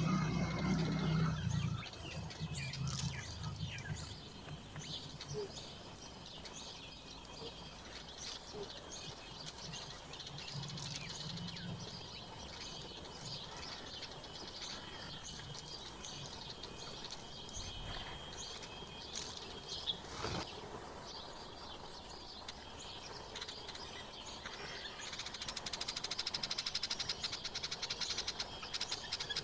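Small songbirds chirping and calling over a faint outdoor background, with a low rumble in the first couple of seconds. Near the end the calls turn into a denser, louder run of rapid high chatter.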